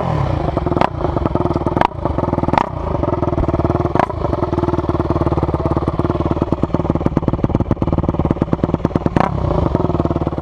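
155cc single-cylinder four-stroke pit bike engine running steadily, with a few sharp clacks at irregular moments.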